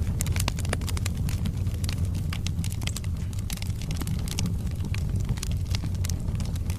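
Wood logs burning in a fireplace: frequent sharp, irregular crackles and pops over a steady low rumble of the flames.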